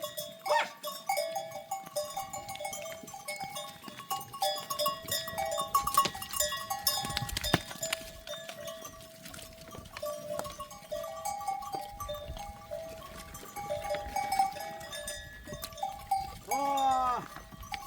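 Bells on a herd of goats clinking and ringing irregularly as the animals move, with one goat bleating near the end.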